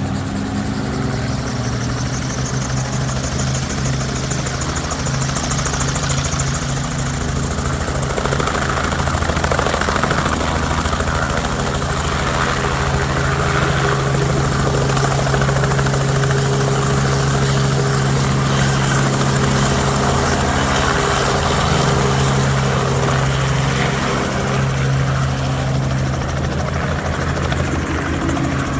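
Helicopter in flight, its engine and rotor running with a steady drone and a fast, even blade beat.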